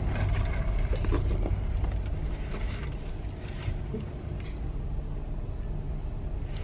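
Steady low hum of a car's engine heard from inside the cabin, with a few faint clicks and rustles in the first second or two.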